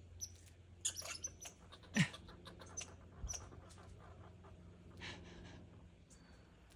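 Squirrels feeding on pine cones: irregular crackling clicks with a few short high squeaks, the loudest about two seconds in.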